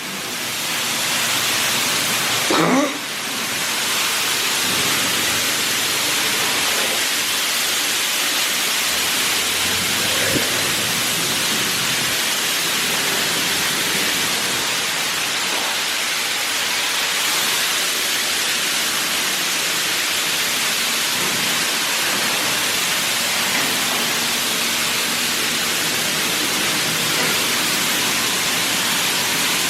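Touchless laser car wash spraying high-pressure water onto a car: a steady, loud hiss of spray that builds over the first second and then holds.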